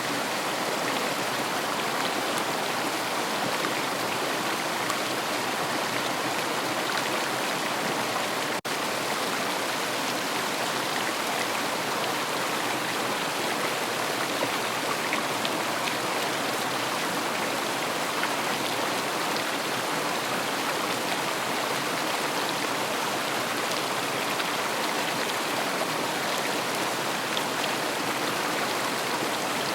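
River water flowing steadily, a continuous even rush of running water.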